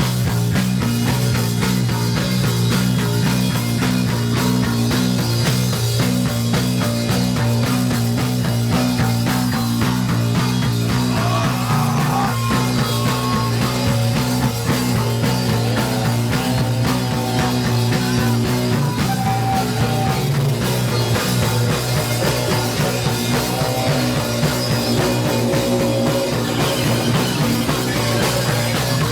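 Punk band playing live: loud, dense rock with guitar, bass and drums, steady throughout.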